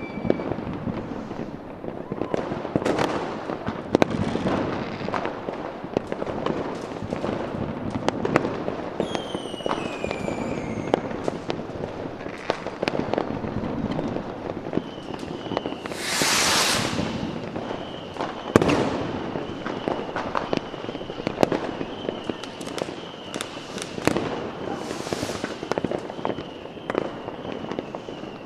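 A fireworks display: many sharp bangs and crackling reports follow close on one another. About ten seconds in there is a falling whistle, and about sixteen seconds in a long, loud hiss.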